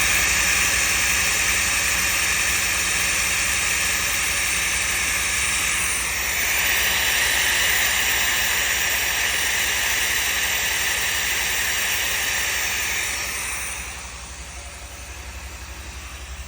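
A 1984 car's engine idling on its first cold start, with a steady loud hiss from the fuel injector and open air intake over the low running of the engine. The hiss fades about three seconds before the end while the engine keeps running. The ignition timing is off, which the owner puts down to a distributor set one tooth out.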